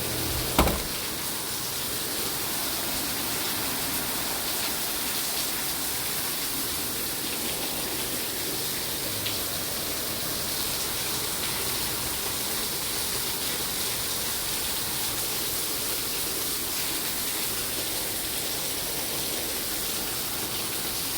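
Steady heavy rain: an even, unbroken hiss, with one sharp click about half a second in.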